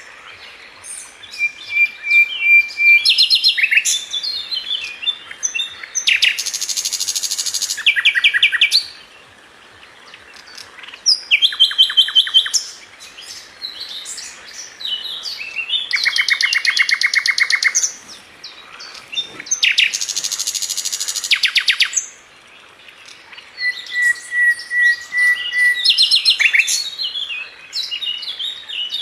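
Sikatan London flycatcher singing a varied song. It mixes quick high chirps, a few long level whistles and loud, fast rattling trills, in phrases with short pauses between them.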